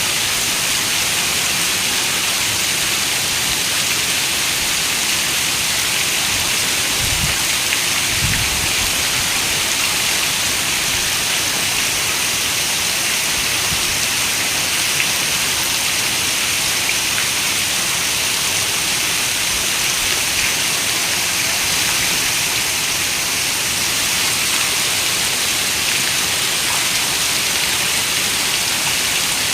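Steady rain, a dense even hiss of many drops, with two brief low thumps about seven and eight seconds in.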